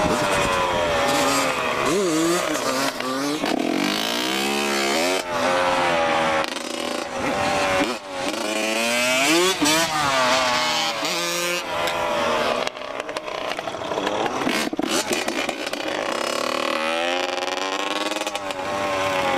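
Dirt bike engines revving, the pitch climbing and falling again and again as the throttle is opened and closed, over a steady hiss.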